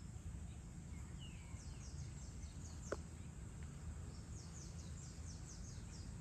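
Evening outdoor ambience over a city: a steady low rumble of distant town noise, with a bird giving two runs of quick, high, falling chirps, one about a second and a half in and another around four to six seconds in. A single sharp click comes near the three-second mark.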